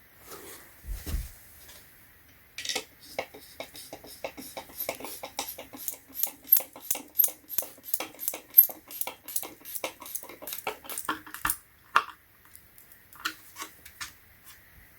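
A furniture screw being driven by hand into a flat-pack nightstand: a quick, even string of clicks, about five a second, for roughly nine seconds, after a thump of handling about a second in.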